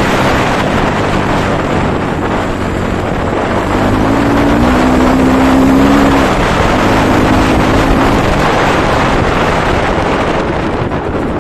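Kovi Advance 300 dirt bike engine running under way, its pitch rising as it revs up about four seconds in and easing again near eight seconds, with heavy wind noise on the microphone.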